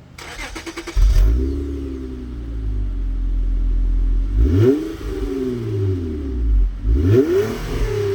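Honda Accord 3.0 V6 with a Mugen exhaust being started: the starter cranks briefly, and the engine catches about a second in and settles to idle. The throttle is blipped twice, near the middle and near the end, each rev rising and falling back to idle.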